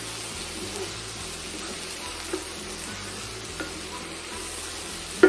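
Diced potatoes, onions and mushrooms sizzling in a hot skillet while being stirred with a wooden spoon, with a few light knocks of the spoon against the pan and a sharper knock at the very end.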